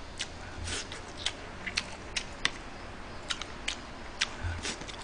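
A person chewing food close to the microphone: a quick, irregular series of wet mouth smacks and clicks, about two or three a second.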